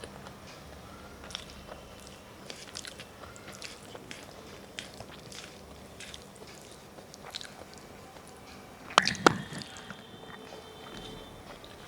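Close-up eating sounds: a person chewing a meal of rice and fried fish, with many small mouth clicks, and two sharp, loud clicks close together about nine seconds in.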